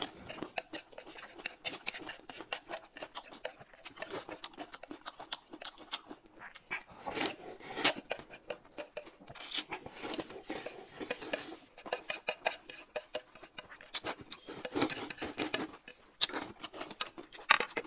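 Close-up eating sounds: noodles slurped and chewed in quick wet rasps, with light clicks of chopsticks against the plate.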